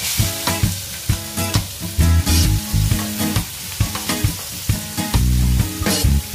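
Chopped onion and green chilli sizzling in hot oil in a pan, the hiss loudest as they go in at the start, stirred with a wooden spatula. Background music plays throughout.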